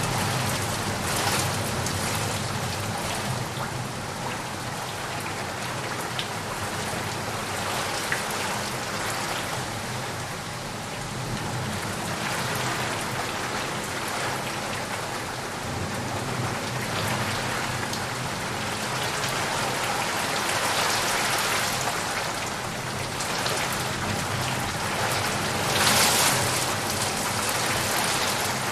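Heavy rain falling steadily on leaves and puddles, swelling in bursts, loudest near the end.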